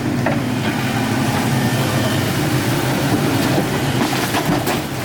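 Excavator's diesel engine running steadily under work, with short metal clanks, a couple of sharper ones near the end.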